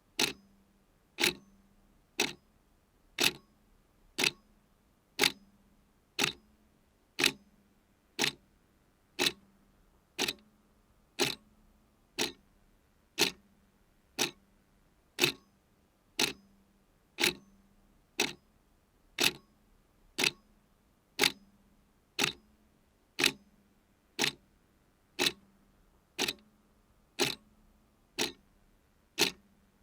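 Clock ticking steadily: sharp ticks about once a second, evenly spaced.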